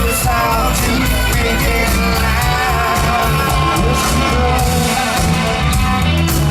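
Live rock band playing through a concert sound system, with a male lead vocal singing over electric bass, guitar and drums.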